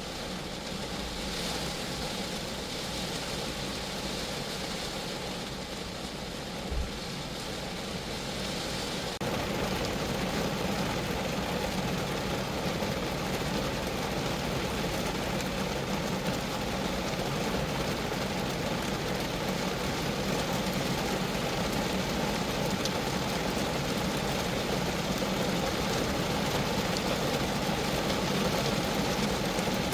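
Rain falling steadily on a Geo Metro's roof and body, an even hiss of drops that grows louder about nine seconds in. A single brief low thump sounds near seven seconds in.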